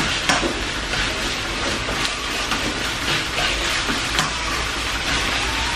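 Onions and ginger-garlic paste sizzling steadily in oil in a wok, stirred with a spatula that scrapes and taps against the pan now and then.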